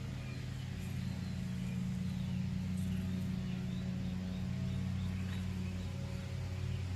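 A steady low hum made of several held tones, with faint short high chirps over it.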